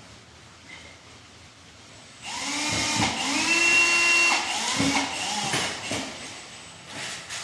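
Power drill running in several trigger pulls from about two seconds in, its motor pitch rising, holding and dropping as the speed changes.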